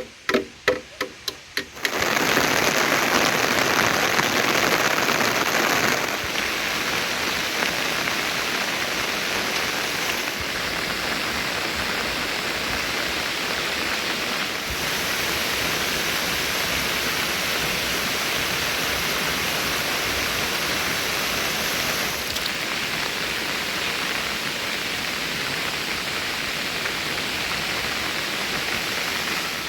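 Heavy monsoon rain falling with a steady, even hiss. It starts suddenly about two seconds in, after a short run of quick, pitched wooden knocks, and its level shifts slightly a few times.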